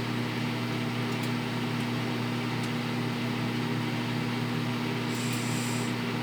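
Microwave oven running with a steady electrical hum while heating eggs. The last egg has not popped yet, and there is a brief faint hiss about five seconds in.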